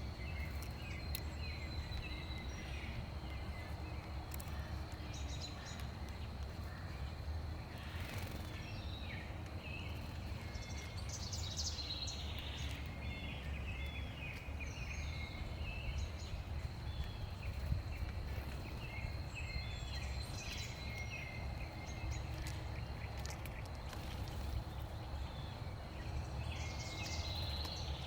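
Songbirds chirping and calling, many short notes scattered throughout, over a steady low outdoor rumble and a thin, steady high tone.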